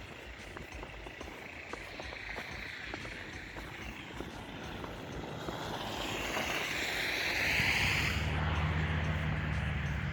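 A vehicle passing on a snowy street: a tyre hiss swells over several seconds, peaks and cuts off about eight seconds in, while a steady low engine hum comes in and carries on.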